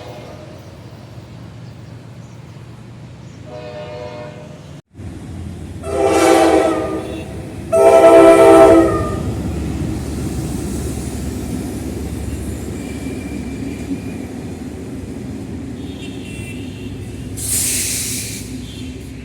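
General Electric diesel locomotive horn sounding two loud blasts about six and eight seconds in, after a fainter horn note, then the steady rumble of the train running past. There is a short hiss near the end.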